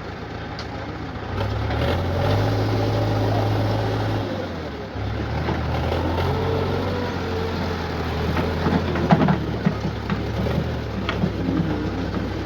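Heavy diesel machine engine running. Its note rises about a second and a half in, falls away around four seconds, then picks up again and holds steady. A few sharp knocks come through near the end.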